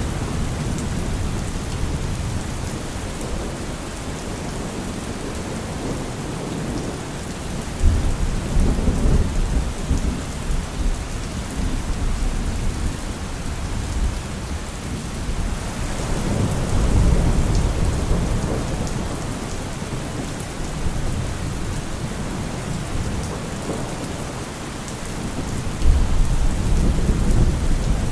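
Steady heavy rain with rolling thunder: a sudden low crack and rumble about eight seconds in, a slower swelling rumble around the middle, and another sharp clap with rumble near the end.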